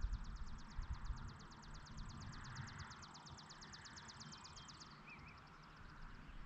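An insect trilling: a fast, even train of high pulses, about ten a second, that drops to a fainter trill about five seconds in. A brief bird chirp comes just after, over a low rumble that is strongest in the first second.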